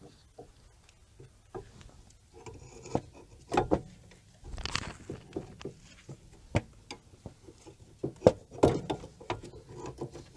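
Scattered metal clinks and knocks of brake parts and hand tools being handled and set down, with a brief scraping rub about four and a half seconds in.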